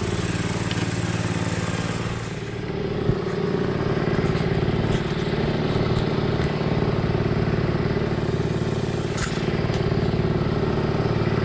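An engine running steadily with a low hum. Its note dips and shifts about two seconds in, and there are a couple of sharp knocks.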